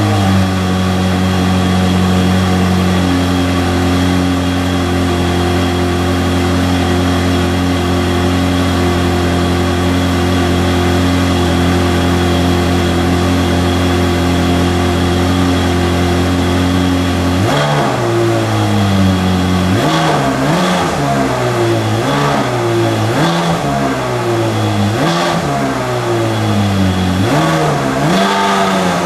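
Ferrari 360's 3.6-litre V8, through a Tubi exhaust, running at a steady idle a minute after a cold start following almost a month of sitting. A little over halfway through it is revved in a series of short throttle blips, each rising and falling quickly.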